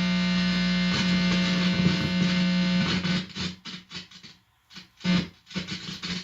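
Loud, distorted electrical buzz from a guitar amplifier whose input cord's tip is held against a person's head. It holds steady for about three seconds, then breaks up into choppy bursts with brief dropouts as the contact shifts.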